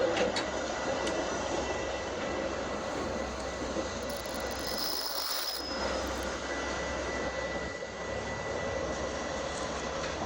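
Metra SD70MACH diesel locomotive and its commuter train running, a steady rumble and hiss with a faint high tone held through it; no horn sounds.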